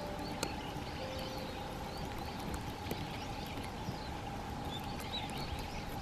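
Faint bird calls: short chirps repeating throughout over a steady outdoor hiss, with a thin constant tone beneath.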